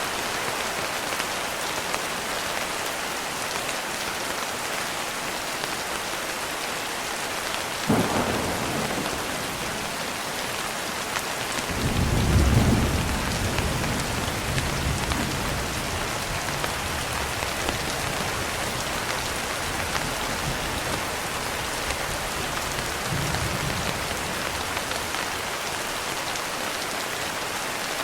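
Steady heavy rain falling on a surface, with a sharp thunder crack about eight seconds in, a louder low rolling rumble of thunder a few seconds later that dies away slowly, and a fainter rumble near the end.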